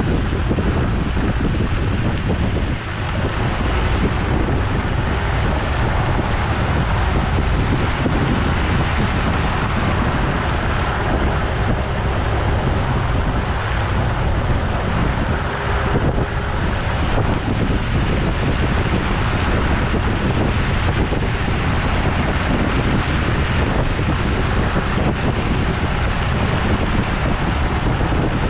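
Steady wind noise rumbling on the microphone over a Toyota 4Runner driving along a dirt off-road trail, its engine and tyres blending into one even, unbroken noise.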